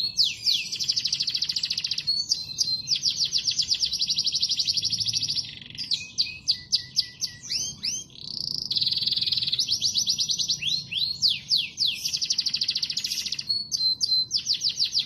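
Domestic canary singing vigorously: long trills of rapid repeated notes, each run broken by quick rising whistles, with a brief change of phrase about halfway through.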